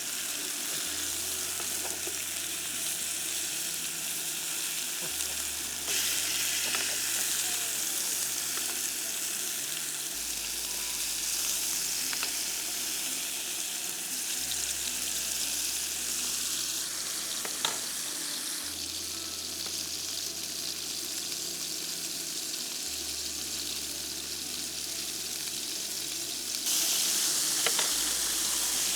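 Steaks frying on a griddle: a steady hiss of sizzling oil, with a couple of sharp clicks.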